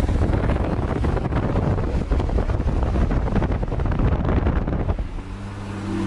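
Heavy wind buffeting on the microphone over the rumble of a car moving at speed. About five seconds in the wind drops away and a steady low engine drone comes through.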